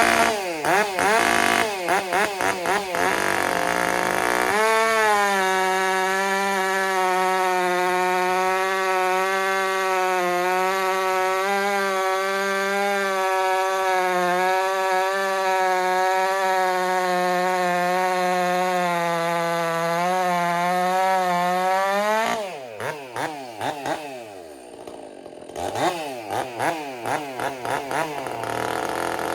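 Stihl MS 400 C two-stroke chainsaw with a modified exhaust: blipped a few times, then held at high, steady revs for about seventeen seconds. It drops back to idle and is blipped again, revving up near the end. The owner thinks the exhaust has cost the saw power and torque.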